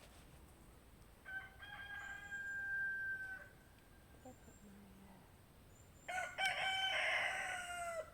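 A rooster crowing twice: a long held crow about a second in, then a second, louder crow near the end that drops in pitch as it finishes.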